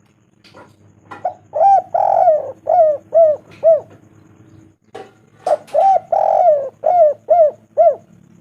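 Spotted dove cooing: two phrases of rhythmic coos, each opening with a longer drawn-out note followed by a run of short, evenly spaced notes.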